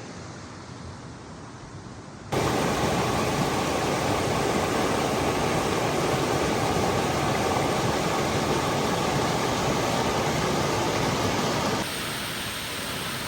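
Rushing creek water, fairly quiet at first; about two seconds in it jumps to a much louder, steady rush of falling whitewater from a waterfall, which eases somewhat near the end.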